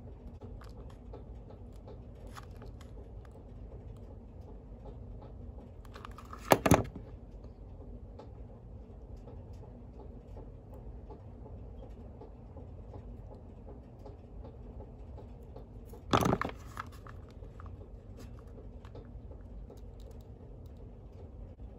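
Quiet work-bench handling of small parts and tools, with faint scattered clicks and two short, louder knocks, one about six and a half seconds in and one about sixteen seconds in.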